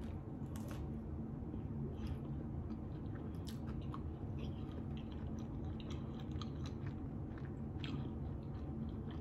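A person chewing and biting into a chicken and cheese quesadilla, quiet mouth sounds made of scattered small clicks, over a low steady background hum.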